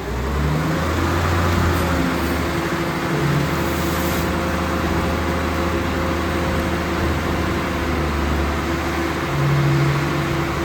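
A CCC Heil Rapid Rail side-loader garbage truck's engine running at a steady pitch, with a slight swell in level near the end.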